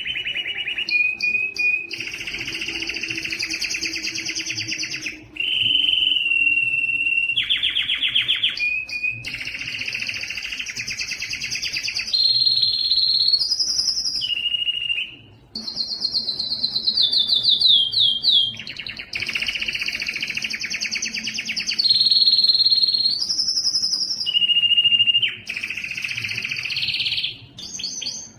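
Spanish timbrado canary singing a continuous song of rapid trilled rolls alternating with held whistled notes, the phrase changing every second or two, with a falling run of notes past the middle.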